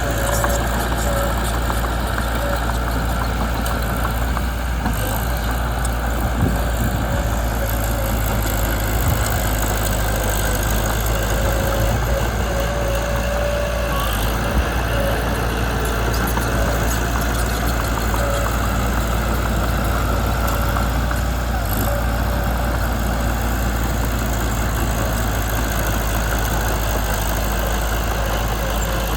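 Mitsubishi BD2 small crawler bulldozer's diesel engine running steadily, with an even, unbroken drone.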